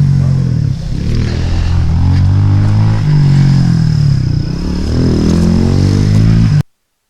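Honda Civic EK sedan's engine running with small rises and falls in pitch, a faint steady high whine over it; it cuts off abruptly near the end.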